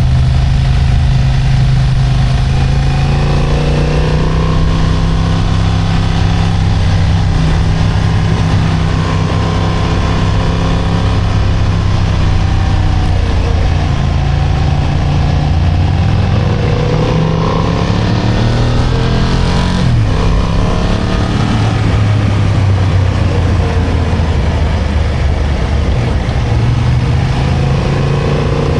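Motorcycle engine running under way, its revs climbing repeatedly and falling off sharply about twenty seconds in.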